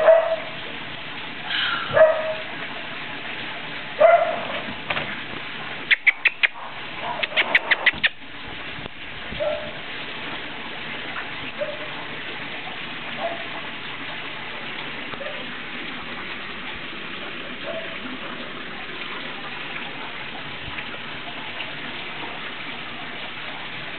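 Norrbottenspets puppies whining, with short high calls every couple of seconds over a steady hiss. A quick run of sharp, rapid sounds comes about six to eight seconds in.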